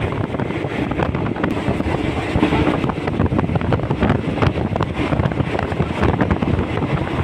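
Passenger train running at speed, heard from inside the carriage: a steady rush of wind on the microphone over the rumble of the train on the rails.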